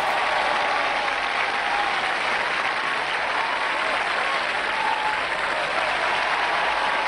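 Audience applauding steadily after a song ends, with a few faint voices in the crowd.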